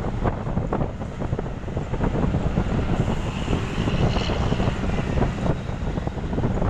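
Heavy road-construction machinery running outdoors, a steady diesel engine rumble, with wind buffeting the microphone.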